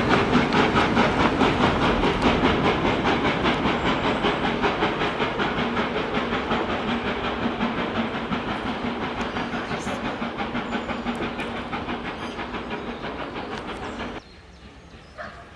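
Steam locomotive working with fast, even exhaust beats, fading steadily as it moves away. The sound cuts off suddenly near the end.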